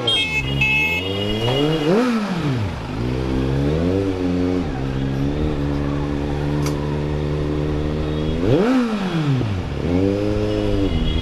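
Superbike engine on the move: the revs climb and fall around two seconds in and again near nine seconds, with a steady stretch of running between.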